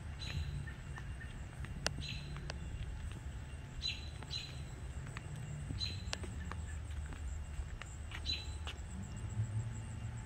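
Small birds chirping: short high chirps every couple of seconds, some in quick pairs, over a steady low outdoor rumble.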